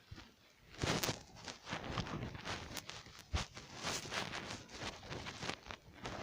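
Footsteps and rustling of clothing and gear as an airsoft player moves, an uneven run of crunches and scrapes with a sharp knock about halfway through.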